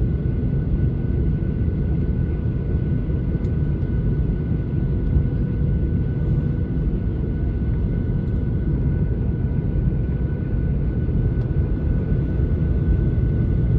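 Steady cabin rumble of a Boeing 737-800 with its CFM56-7B engines running, with a faint steady high whine above the low noise.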